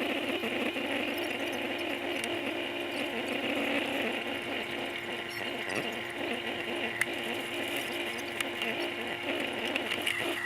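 Sailboat's engine running steadily under way, a constant hum over a wash of hiss, with a few sharp clicks near the end.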